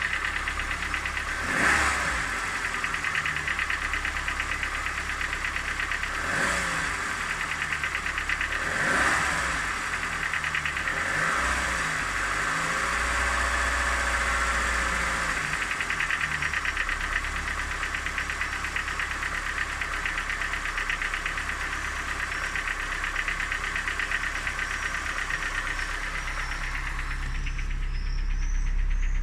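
Car engine running with a fast, steady knock, the fault the owner is trying to identify. It is blipped briefly four times in the first half, then runs steadily at idle.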